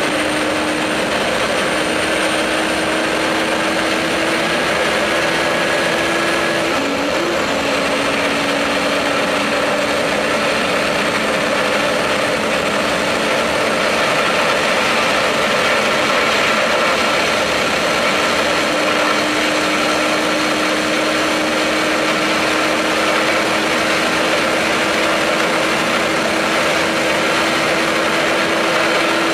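The Ack Attack streamliner motorcycle's twin turbocharged Suzuki Hayabusa engines under full power on a land-speed run, heard from inside the cockpit as a steady, loud roar with a constant whine running through it. About seven seconds in, the whine briefly wavers and drops in pitch, then holds steady again.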